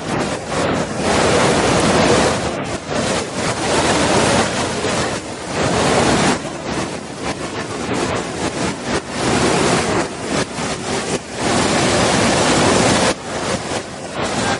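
Waterfall pouring, a steady rush of water that surges louder and softer every few seconds, with gusts of wind on the microphone.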